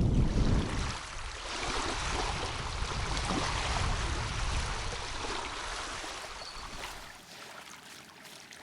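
Wind buffeting the microphone with a low rumble, then a steady rushing hiss of wind that slowly dies away near the end.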